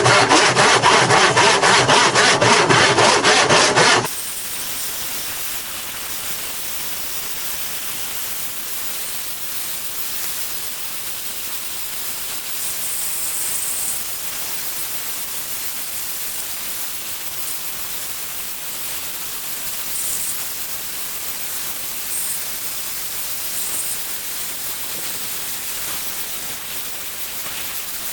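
Fast back-and-forth abrasive strokes, about five or six a second, loud for about four seconds and then stopping suddenly; a steady hiss follows.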